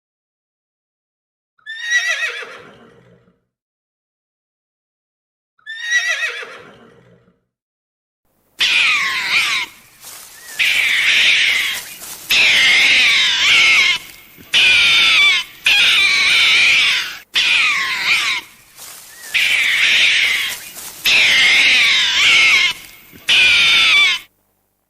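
A horse whinnies twice, each call falling in pitch. Then comes a loud, shrill, warbling animal call, repeated in about nine bursts of a second or two each with short breaks between them.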